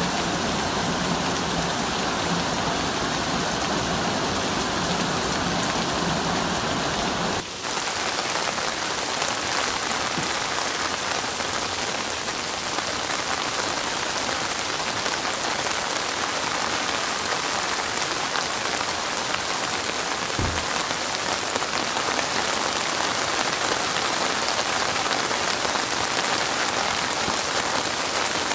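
Steady rain falling, an even hiss with no pauses. About seven seconds in the sound changes abruptly to a lighter, hissier rain with the deep low part gone, and there is one soft low thump about two-thirds of the way through.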